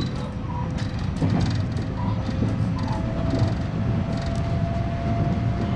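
Electric train running on rails, heard from inside the front car: a steady low rumble with a faint motor whine that rises slightly about halfway through.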